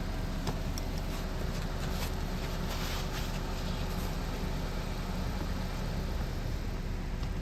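Car engine idling steadily, warming up, with a few light clicks and a brief hiss about three seconds in.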